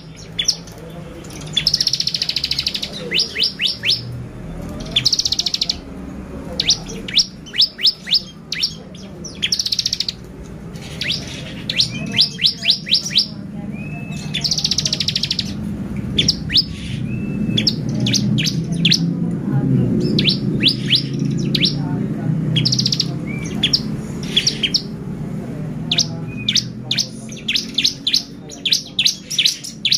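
Bar-winged prinia (ciblek) singing in an excited, continuous way: quick runs of sharp, high chirps broken up by short buzzy trills, over low background noise.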